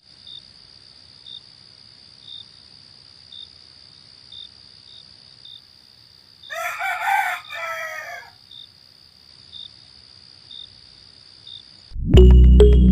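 A rooster crowing once, about six and a half seconds in, over a steady high-pitched hum with faint chirps about once a second. Music starts near the end.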